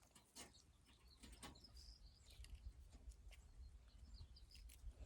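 Near silence: faint, scattered small clicks and rustles, with a couple of tiny high chirps.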